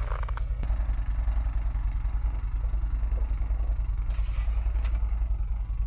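A small engine runs steadily at idle: a low, even hum with a fast pulse.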